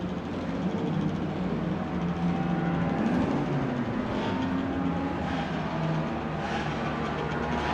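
1960s racing car engine running, its pitch shifting up and down, with a rising rev about three seconds in.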